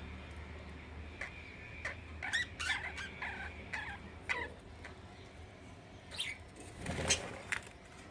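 Pet budgie and cockatiel moving about: scattered light clicks and taps, a few short chirps in the middle, and a brief flurry of wing-flapping near the end.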